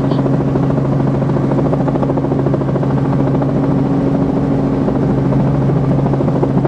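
Helicopter engine and rotor noise heard from inside the cabin: a loud, steady drone with a low hum and a fast, even rotor chop.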